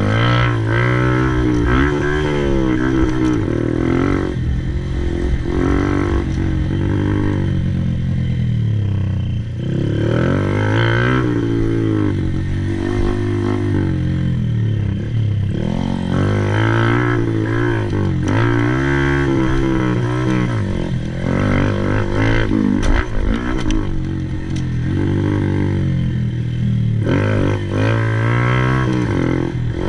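Honda Monkey 125's air-cooled single-cylinder four-stroke engine being ridden hard, its pitch rising and falling repeatedly as the throttle is opened and closed.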